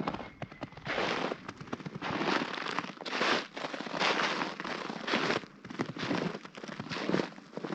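Crunching steps through snow, one crisp crunch about every second.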